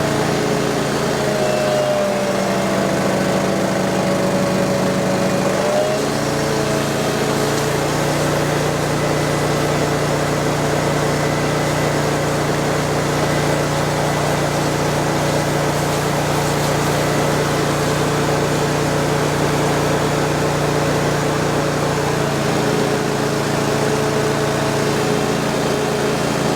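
Ditch Witch FX20 vacuum excavator running steadily: its engine hums and its vacuum whines over a rushing of air. Its tone shifts about two seconds in, returns a few seconds later, and shifts again near the end.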